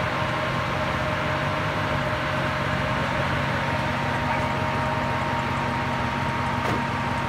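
LS3 V8 in a lifted Jeep Wrangler idling steadily, with a faint thin whine running over it.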